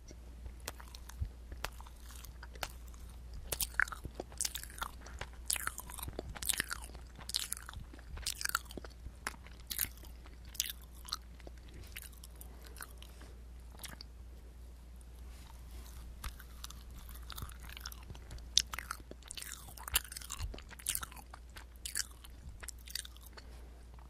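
Close-miked chewing of a soft bread pastry: wet, sticky mouth clicks and smacks coming at irregular intervals, busiest in the first half and again a few seconds before the end.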